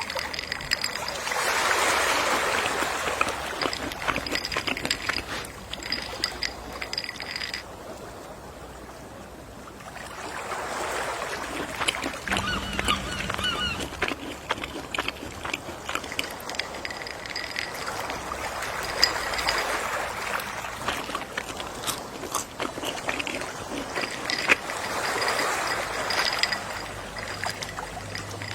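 Gentle sea waves washing in and drawing back, each swell rising and fading about every eight seconds. A few short seagull calls come near the middle.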